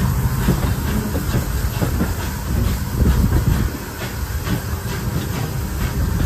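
Pannier tank steam locomotive on the move: a steady rumble and hiss of steam with a regular beat running through it.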